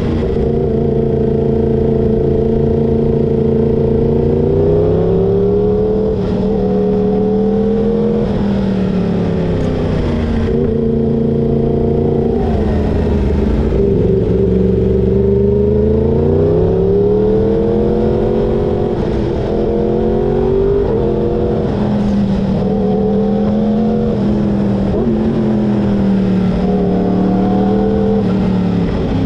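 Yamaha crossplane inline-four sportbike engine under way, its revs repeatedly climbing and dropping as the throttle is opened and closed.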